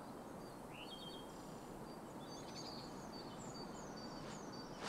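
Quiet woodland ambience with faint birdsong: scattered short, high chirps and a few quick falling calls.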